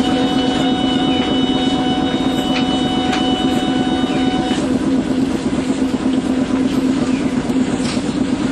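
Iyotetsu Matsuyama city tram, an older car, running along the street track, heard from inside the car: a steady low hum with a higher whine that cuts off about halfway through, and a few sharp clicks.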